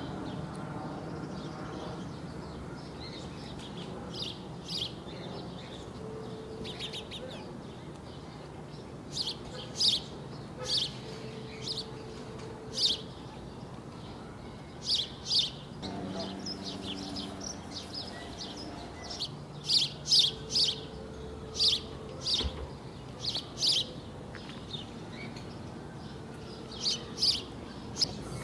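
Small birds chirping in short, repeated calls, scattered through the whole stretch, over a steady low background hum.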